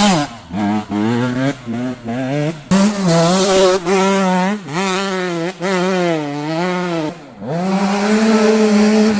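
KTM SX 125 two-stroke single-cylinder motocross engine being ridden hard: short throttle bursts with brief cuts over the first few seconds, then longer pulls with the pitch rising and falling as the rider works the throttle and gears. The revs drop sharply about seven seconds in, then climb back and hold high.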